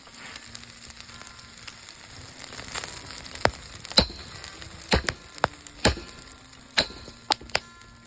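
Wood campfire crackling: a steady hiss with sharp, irregular pops, several loud snaps in the middle seconds.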